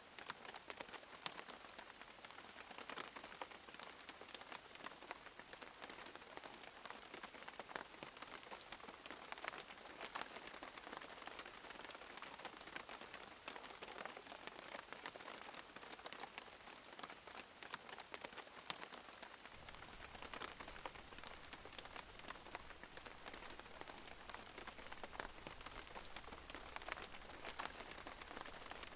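Steady rain falling on a surface, with many individual drops ticking sharply through the hiss. A faint low rumble sets in about two-thirds of the way through.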